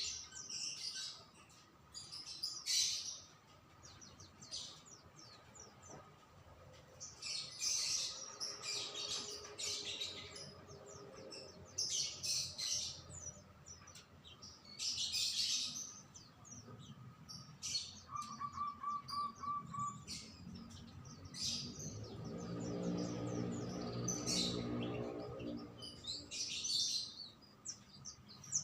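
Small songbirds chirping and twittering in short bursts every second or two. About two-thirds of the way through comes a quick run of six even, lower notes, and a little later a low hum swells and fades.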